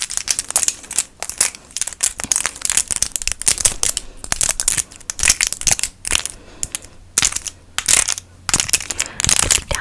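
Rapid flurries of light plastic clicks from pen caps worn on the fingertips as mock acrylic nails, tapped together, with short pauses between flurries.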